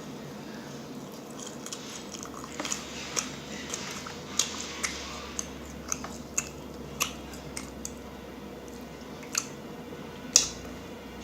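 Close-miked mouth sounds of someone chewing a donut, with a series of sharp mouth clicks and smacks, the loudest one near the end.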